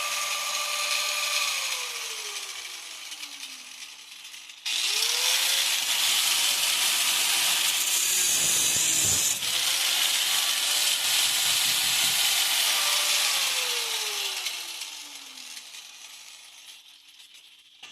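Electric angle grinder running with a steady whine and a harsh grinding hiss. It winds down, is started again about four and a half seconds in, briefly bogs under load near the middle, then winds down again near the end.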